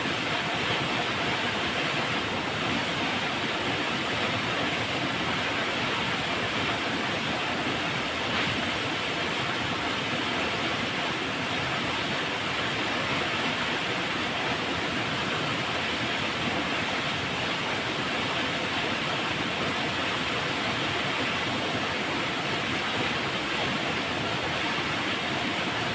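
Flowing river water, a steady, even rushing that does not change.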